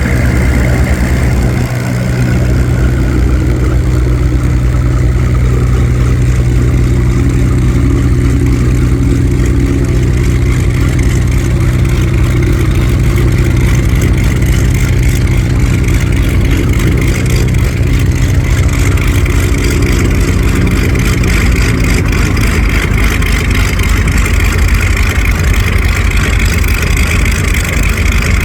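An F4U Corsair's Pratt & Whitney R-2800 eighteen-cylinder radial engine idling steadily and loudly.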